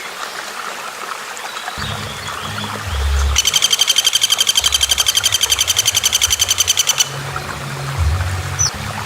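A songbird's fast rattling trill lasting about three and a half seconds, with a short high chirp near the end, over background music with a low repeating bass.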